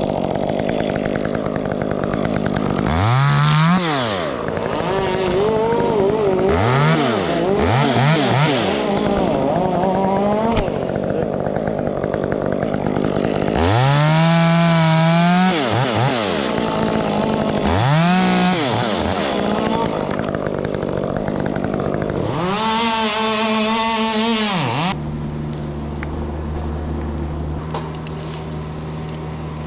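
Chainsaw revving and cutting in about six bursts, its engine pitch rising and falling with each. Near the end it drops to a steady, lower running sound.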